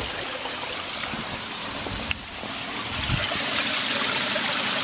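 Waterfall rushing as a steady wash of water noise, with a short break about two seconds in and a little louder after about three seconds.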